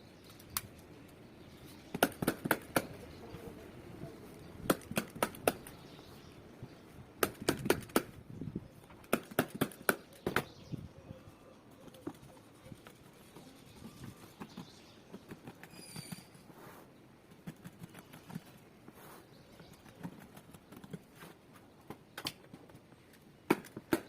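Sharp knocks from upholstery work on a chair frame, such as a staple gun or a tack hammer. They come in quick bursts of several strikes at a time, with scattered single ones between the bursts.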